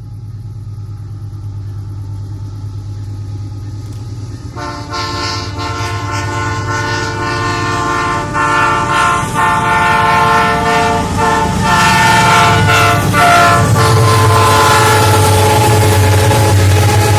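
Heavy iron-ore train's lead GE diesel-electric locomotives approaching with a low rumble that grows louder. About four seconds in the locomotive air horn starts sounding a multi-note chord, held with brief breaks and growing louder as the train comes near.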